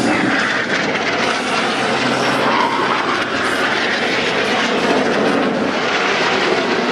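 Jet engines of the Patrouille Suisse's Northrop F-5E Tiger II fighters flying over, a loud, steady rushing roar.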